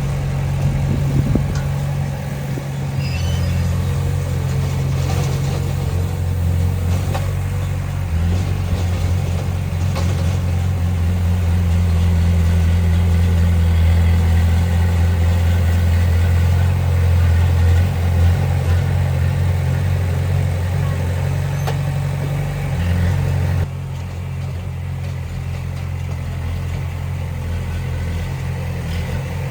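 Heavy diesel engine of earthmoving machinery running under varying load, growing louder through the middle and dropping back abruptly about 24 seconds in, with a few knocks and clanks.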